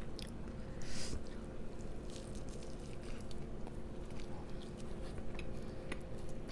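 Close-miked chewing and wet, squishy mouth sounds of someone eating, with small clicks and smacks. A steady electrical hum runs underneath.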